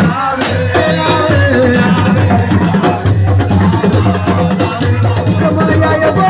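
Live assiko band music: a steady beat of drums and percussion with a singing voice over it.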